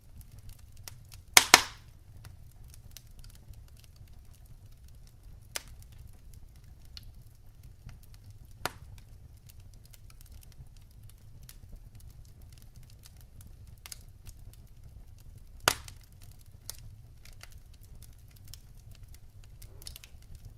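Wood fire crackling in a fireplace: scattered sharp pops over a low steady rumble, the loudest a double pop about a second and a half in, with a few more single pops spread out after it.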